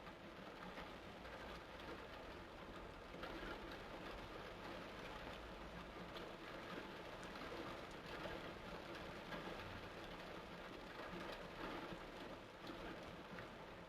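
Torrential rain falling steadily, a constant hiss of heavy rain.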